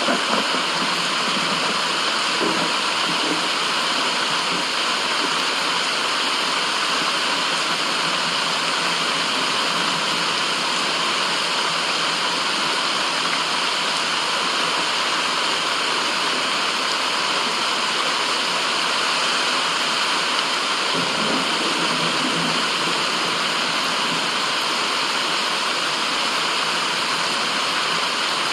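Steady, unbroken white-noise hiss with a rushing-water quality, like a waterfall or fast stream. It is bright, with little low end.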